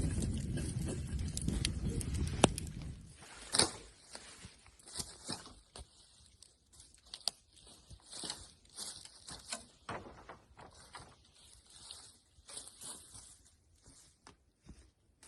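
Bonfire of pruned branches crackling, with scattered sharp pops and short hisses. A low rumble fills the first three seconds and then drops away, leaving the crackle alone.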